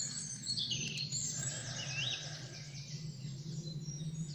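Small songbirds calling and trilling, with fast runs of high notes and a short upward-sweeping note about two seconds in, over a steady low hum.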